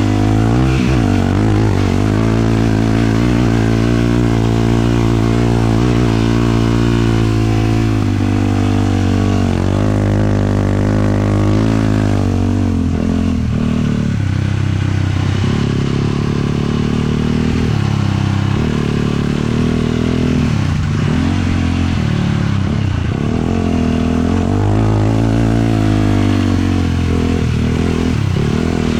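450 cc single-cylinder four-stroke sport quad engine running under way: steady for about the first twelve seconds, then dropping and climbing in revs again and again as the throttle is let off and opened.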